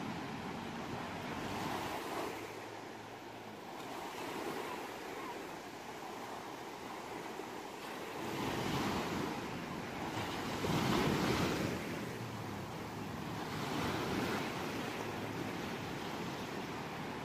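Ocean waves surging and washing onto a shore, swelling and falling back every few seconds, the biggest surge about eleven seconds in.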